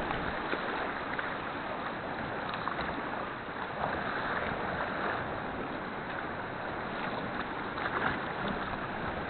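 Sea kayak paddling on choppy water: a steady wash of water against the hull, with occasional paddle splashes.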